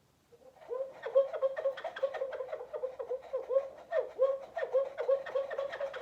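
Homemade bottle bird chirper, a plastic bottle with a slot cut in its side, whirled on a shoelace so that air rushes in and out of the slot. It sets up a rapid run of short bird-like chirps, about five or six a second, starting about half a second in.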